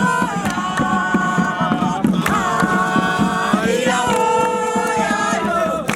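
A group of voices singing a chant in long held notes that step to new pitches every second or two, over a steady beat.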